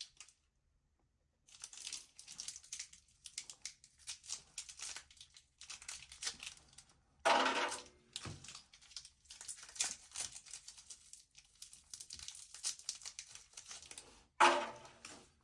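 Packaging being handled: crinkling and tearing in quick, irregular rustles, with a louder, fuller rustle about halfway through and another near the end.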